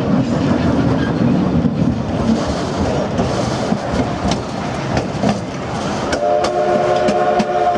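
Passenger cars of a narrow-gauge steam train rolling along the track, with a steady rattle and clickety-clack of wheels over rail joints. About six seconds in, the steam locomotive's whistle starts sounding a steady multi-note chord.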